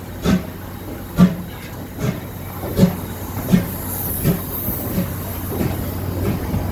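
C11 steam tank locomotive pulling away, its exhaust chuffing in sharp, evenly spaced beats that slowly quicken as it gathers speed.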